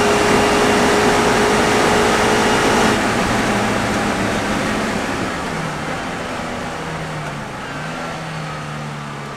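Westfield race car's engine heard from on board, running at high revs flat out with loud wind noise. About three seconds in the driver lifts off, and the engine drops to a lower, wavering note as the car slows.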